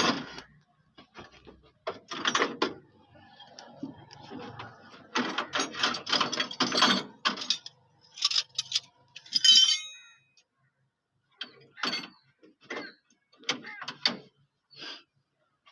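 Irregular metallic clicking and clattering of hand tools at work on a tractor battery installation, in scattered bursts with a busy stretch around the middle and sparser clicks near the end.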